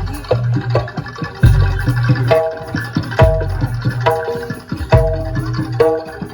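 Live jaranan dor ensemble music: deep drum strokes about once a second under short, ringing pitched notes from metal gong-chimes, with hand-drum patter between.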